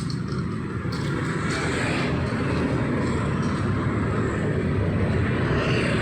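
Steady engine rumble with a broad rushing noise, from motor traffic or an aircraft passing over.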